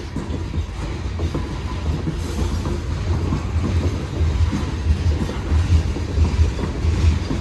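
Coal train hopper cars rolling slowly past, a heavy low rumble with steady irregular clicking and clunking of wheels over the rails.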